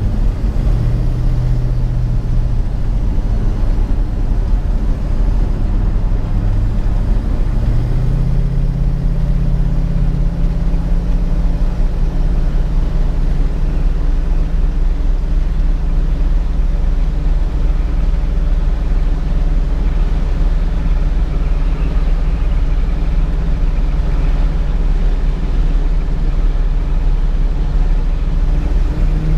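1967 Ford Mustang's 289 V8 running steadily on the move, with a deep low rumble. Its engine note steps up in pitch about eight seconds in and then holds steady.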